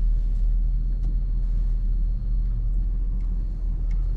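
Truck running with a steady low rumble.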